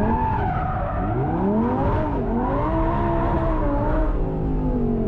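Audi R8's V10 engine revving hard through its Valvetronic valved exhaust while the car is driven in donuts, the pitch swinging up and down several times and falling away near the end, with tyre squeal.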